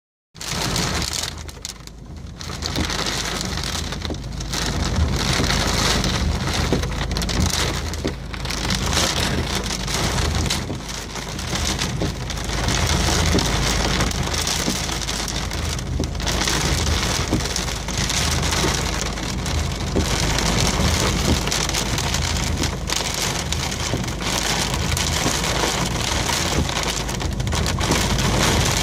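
Heavy rain pouring down in a violent thunderstorm, a dense, steady hiss of rain.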